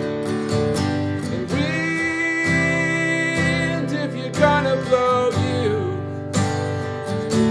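Martin acoustic guitar playing a looped, strummed chord pattern with an improvised single-note lead over it. About two seconds in, a high note is held and bent slightly, and a falling run of notes follows near the middle.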